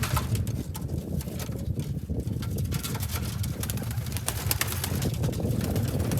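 Many domestic pigeons cooing together in a loft, a dense low continuous layer of coos, with scattered sharp clicks throughout.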